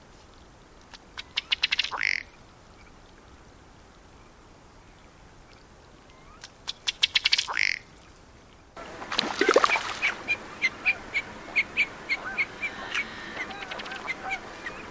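Male ruddy duck giving its bubbling courtship display twice: a quick run of ticks that speeds up and ends in a short croaking burp. About nine seconds in, a busier stretch of many short repeated ticking calls with other bird calls begins.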